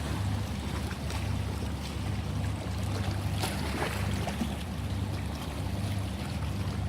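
Sea waves washing in, a steady rush of surf over a low rumble that swells and eases, with a few brief splashes.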